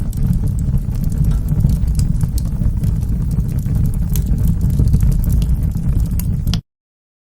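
Wood fire burning in a fireplace: a steady low rumble of flames with frequent sharp crackles and pops. Near the end it cuts off suddenly to complete silence.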